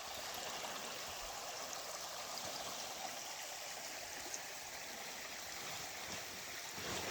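Stream water running steadily: an even rushing hiss.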